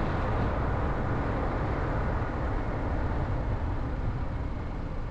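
Steady road noise of a car being driven: tyre and engine noise at a constant level.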